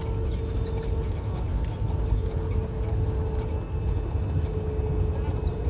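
Airliner cabin noise: a steady low rumble with a steady hum running through it.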